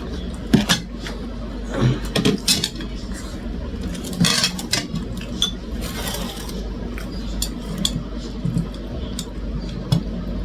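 Utensils clinking and clicking against dishes and a bowl at a meal, in irregular sharp strikes, with a steady low hum underneath.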